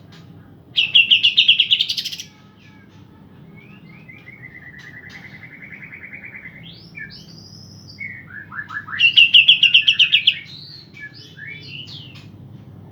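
Cucak ijo (green leafbird) song: a loud rapid trill about a second in and another about nine seconds in, with sliding whistled notes between them.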